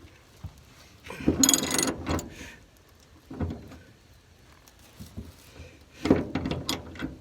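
Hand tools being handled while working on a truck's bed bolts: irregular clattering and knocks, the loudest burst about a second in and a cluster of sharp knocks near the end.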